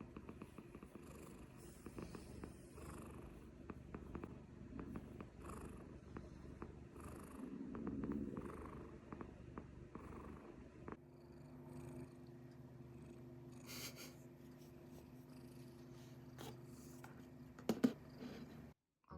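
Munchkin cat purring close up, a steady low purr that changes character about eleven seconds in. A few light clicks sound near the end.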